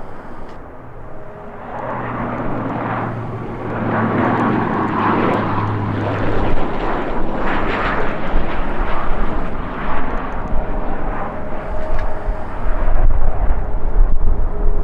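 Jet airliner's engines passing close by, a roar that swells from about two seconds in and is loudest in the middle, with strong gusty wind rumbling on the microphone.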